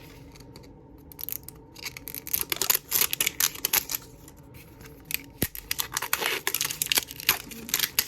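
Small plastic packaging being handled and opened by hand: irregular crinkling, clicks and short tearing sounds.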